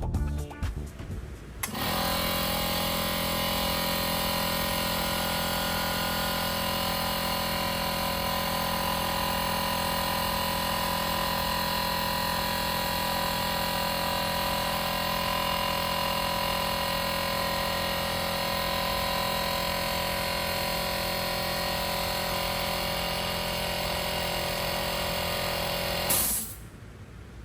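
Electric air compressor running steadily, motor and pump building pressure up to its set point now that the safety valve has been adjusted. It stops abruptly near the end after a brief burst of hiss.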